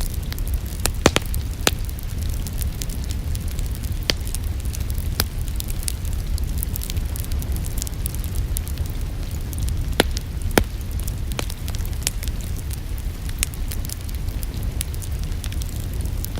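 Wood fire in a fireplace crackling steadily over a low rumble, with a few louder, sharper pops scattered through it: a pair about a second in, two more around four to five seconds in, and another pair about ten seconds in.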